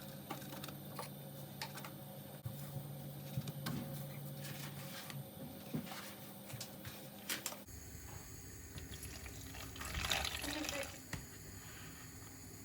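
Kitchen sink sounds: water from a tap with scattered light clicks and clinks, and a louder splashing patch about ten seconds in.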